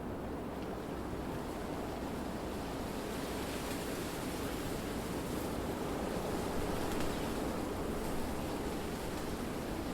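Wind blowing through trees: a steady rushing noise that swells a little in the middle and then eases back.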